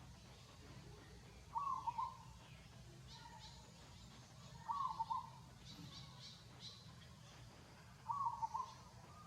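A baby monkey calling: three short calls about three seconds apart, with faint higher chirps in between.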